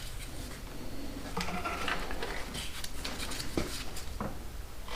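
Light metal knocks and scrapes of a motorcycle engine being worked and angled out of its frame, with a few sharp clicks near the end.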